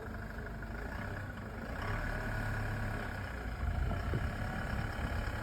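Toyota Hilux's diesel engine running at low revs in four-wheel drive while the truck slips on an icy road, growing louder about two seconds in and again past three and a half seconds.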